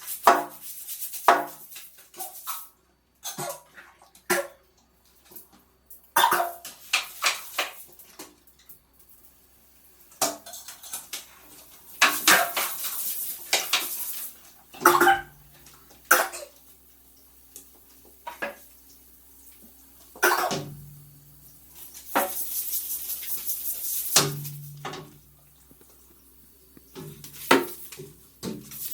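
Dishes and kitchen utensils clattering as they are handled, many separate clinks and knocks, with a few stretches of steady hiss lasting about two seconds.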